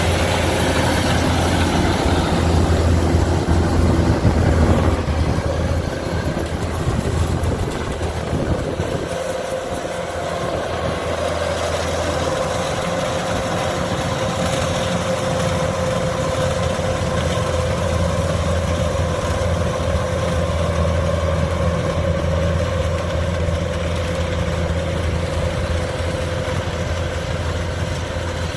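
Kubota DC-105X combine harvester's diesel engine running steadily, with a steady mid-pitched whine joining from about halfway through.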